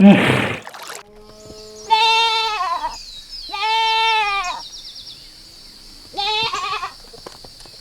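A farm animal bleating three times, each bleat about a second long and wavering in pitch. A short loud rush of noise comes at the very start.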